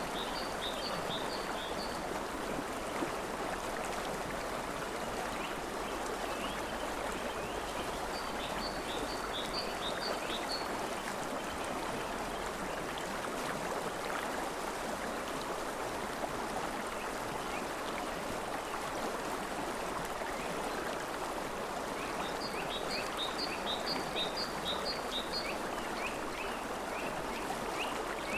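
River water flowing steadily. A small bird sings several short phrases of quick, repeated high notes over it.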